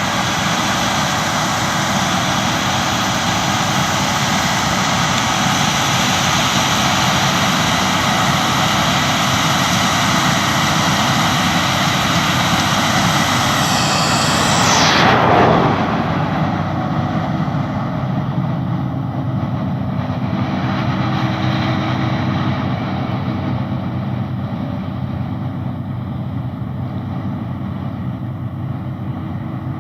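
Claas Lexion combine harvester working, a steady loud drone of engine and threshing gear. About halfway through, something passes close by with a quick downward sweep in pitch, and the drone is duller afterwards.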